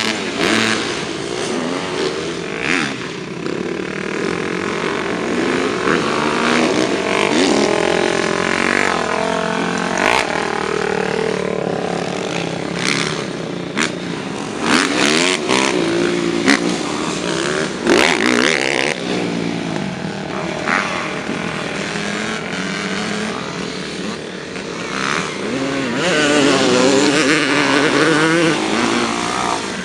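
Motocross dirt bike engines revving hard, their pitch rising and falling again and again as they accelerate and shift, with overlapping engine notes at times and a few sharp knocks.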